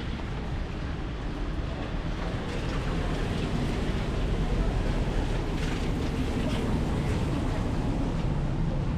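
Steady rain falling on an umbrella and a wet street, under a low rumble that swells about three seconds in and stays up.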